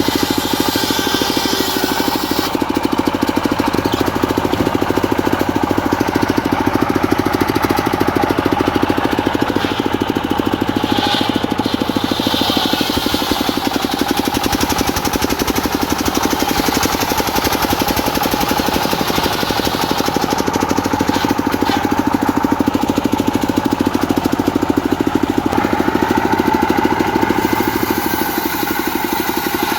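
Diesel engine running steadily with a fast, even chugging, driving a homemade circular sawmill blade. The higher saw noise above it changes about two seconds in and again near the end.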